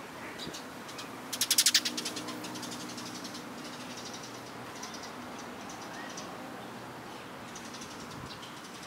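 A bird's short, rapid chattering call about a second in, the loudest sound, followed by fainter, scattered high chirps over a faint low steady hum.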